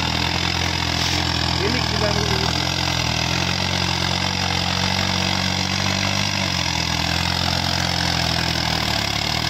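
Diesel tractor engine running steadily; its pitch rises a little about three seconds in and drops back near the end.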